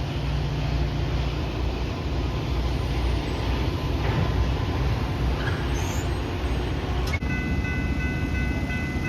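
A train running, a steady low noise of wheels and engine. About seven seconds in a click is followed by steady high tones.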